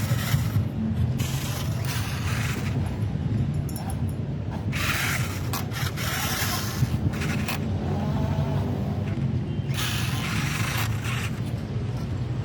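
Heavy vehicle engine running steadily, with short bursts of hissing noise about every five seconds.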